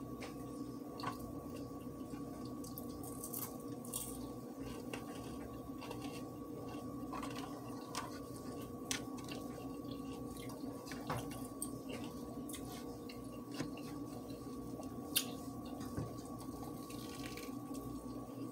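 Mouth sounds of a person chewing a crispy chicken sandwich: scattered clicks and smacks at irregular moments over a steady hum.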